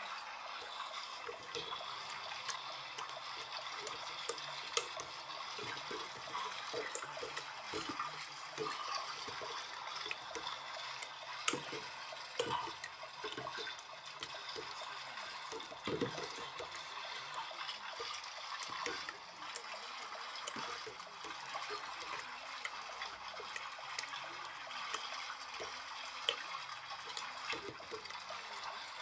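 LG washing machine on its rinse cycle, water running and sloshing inside the drum with scattered small splashes and ticks.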